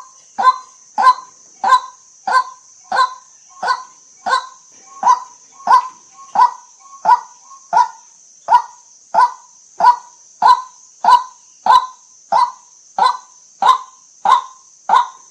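White-breasted waterhen calling a steady, evenly spaced series of short sharp "kwak" notes, about one and a half a second, with a faint steady high hiss behind.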